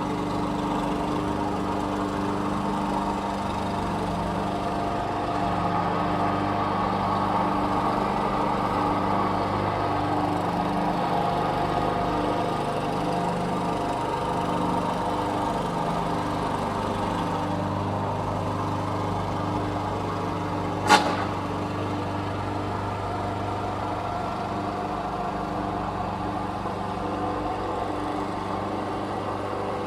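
Lawn mower running steadily at a constant pitch, with a single sharp click about two-thirds of the way through.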